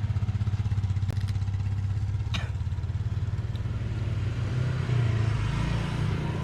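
An engine running steadily with a low, even throb, its pitch shifting slightly about five seconds in.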